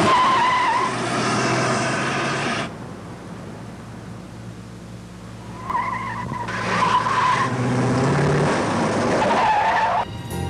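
Tyres squealing as a big car is driven hard, with several wavering squeals: one at the start, another about six to seven seconds in, and one near the end. Underneath is a steady low engine hum, with a loud rushing noise in the first few seconds.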